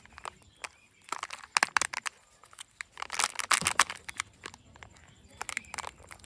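Plastic packaging being handled and opened: clusters of crinkling and sharp clicks, the densest about three seconds in, with quiet gaps between.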